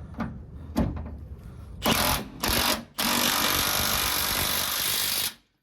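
Impact wrench hammering: two short bursts, then one longer steady run that stops sharply, driving and tightening a nut on a truck's rear leaf spring mounting.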